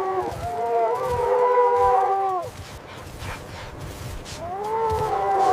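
Wolves howling: several long, held howls overlapping, fading out about two and a half seconds in, then a new howl rising near the end.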